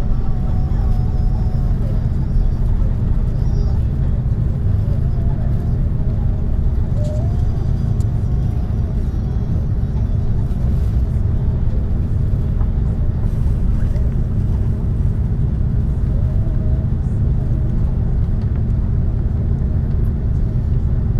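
Steady cabin rumble inside an Airbus A330 taxiing: engines at low thrust and the roll of the wheels, with a constant low hum underneath.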